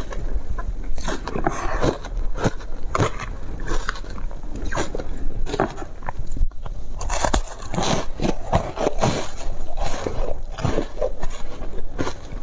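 Close-up biting and crunching of foam ice: a dense, irregular run of sharp crunches, with a brief break about six and a half seconds in.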